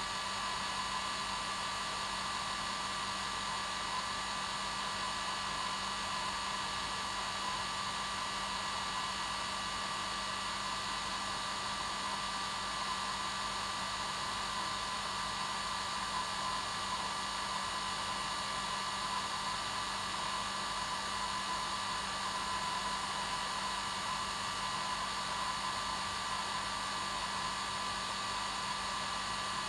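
Hair dryer running continuously on its normal setting: a steady blowing rush with a constant motor whine and hum.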